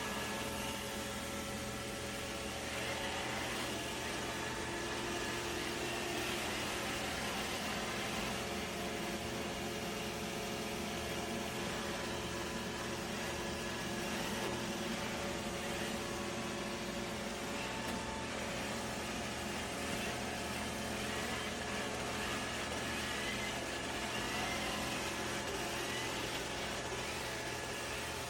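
Steady mechanical hum and whir.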